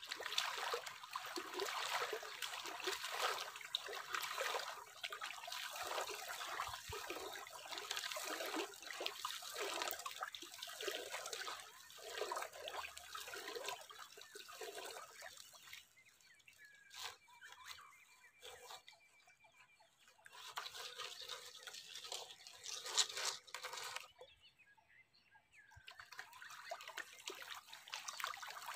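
Water trickling and splashing in uneven bursts. It stops twice for a few seconds, about halfway through and again near the end.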